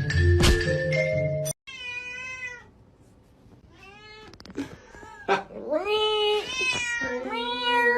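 Mallet-percussion music for the first second and a half, then a domestic cat meowing: one long meow, a short quiet pause, then several meows in quick succession.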